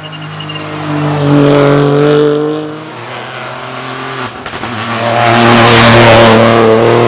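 Rally car driven hard, its engine revving at high load and getting louder twice, with a short break in the engine note between the two swells.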